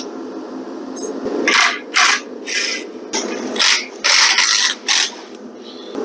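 Power tool run in short bursts, about eight in six seconds, each a brief rasping spurt, over a steady hum.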